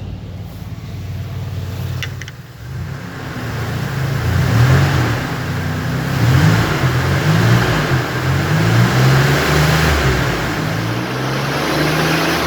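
2005 Ford Explorer engine idling, then revved repeatedly from about three seconds in, the pitch rising and falling with each blip of the throttle.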